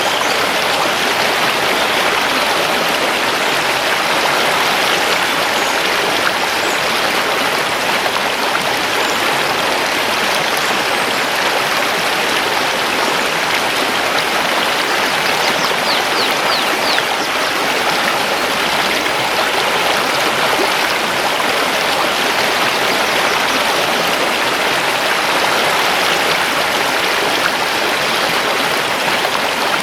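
Mountain river flowing over stones: a steady, even rush of water. A few faint high bird chirps come through about halfway.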